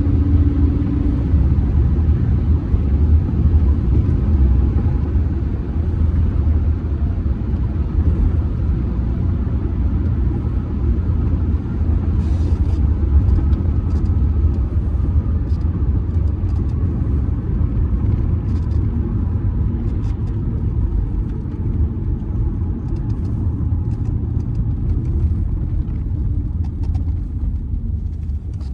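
Steady low road and tyre rumble with the drone of the Audi A6 C6's 2.0 TDI four-cylinder turbodiesel, heard from inside the cabin while cruising at highway speed.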